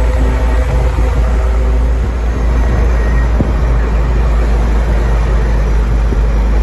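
Vehicle driving along a road: steady engine drone with a heavy low rumble of tyre and road noise.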